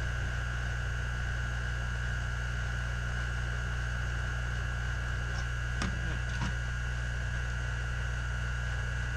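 Steady electrical mains hum with a constant high whine above it, and two faint light ticks about six seconds in.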